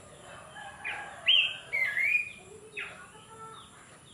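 Abbott's babbler (pelanduk semak) singing a short phrase of clear whistled notes that slide up and down, loudest about a second in and fading out by about three seconds.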